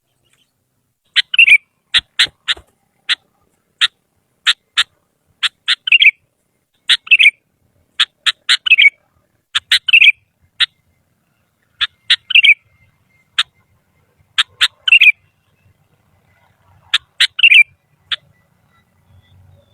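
Sooty-headed bulbul (kutilang) singing: runs of short, sharp chirps, each ending in a sliding, falling whistled note, repeated every second or two from about a second in until near the end.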